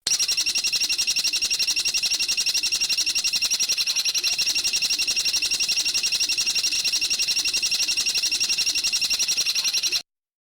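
A songbird's high-pitched trill: a rapid, even stream of repeated notes that runs on unbroken and then cuts off abruptly about ten seconds in.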